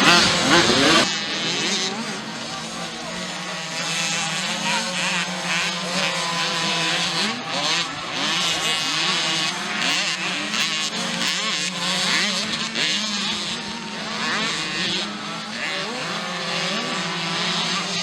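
Several small 50cc mini motocross bikes running and revving together, their engine notes rising and falling and overlapping.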